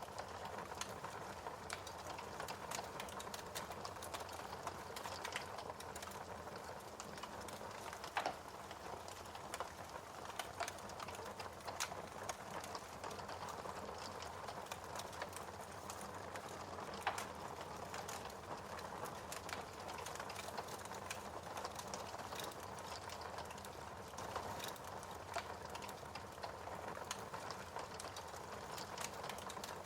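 Fire crackling in a fireplace: a steady low hiss dotted with many small sharp crackles. Louder pops come about 8 seconds in and again near 17 seconds.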